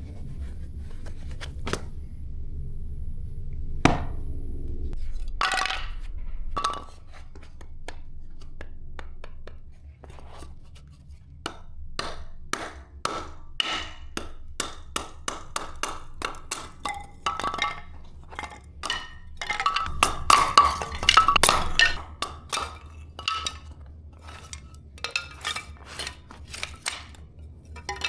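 Firewood being chopped and split: one sharp strike about four seconds in, then a long run of quick, irregular knocks and cracks of wood, thickest around the twenty-second mark.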